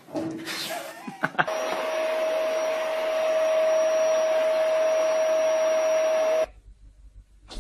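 A small electric appliance motor running steadily, a single held whine over a loud rushing hiss, after a few knocks. It cuts off abruptly.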